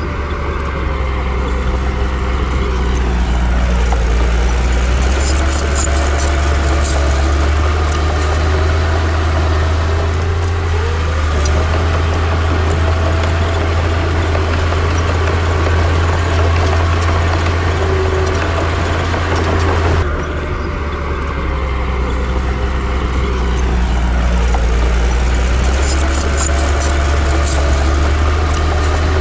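Heavy diesel engine of earthmoving machinery running under load with a steady low rumble, its pitch slowly rising and falling as the throttle changes, and a few faint clanks. The sound shifts abruptly about twenty seconds in.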